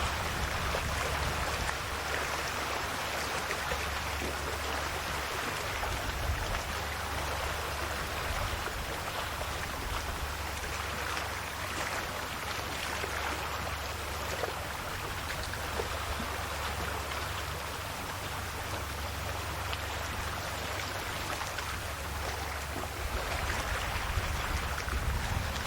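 Calm sea waves washing gently against the shore: a steady wash of water over a low rumble, swelling a little near the end.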